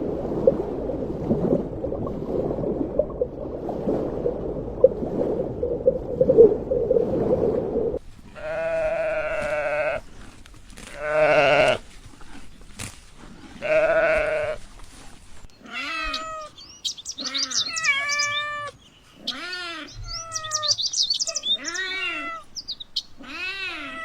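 Goats bleating: after a dense, noisy jumble in the first third, three long wavering bleats a few seconds apart, followed by a quick run of shorter rising-and-falling calls.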